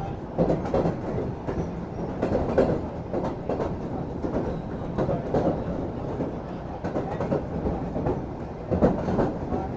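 Pakistan Railways passenger train running at speed: a steady low rumble of the carriage, with wheel clacks over the rail joints coming in close pairs every two to three seconds.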